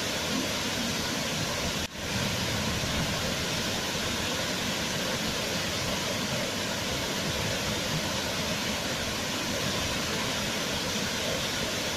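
Waterfall: a steady, even rush of falling water, with a brief drop in level about two seconds in.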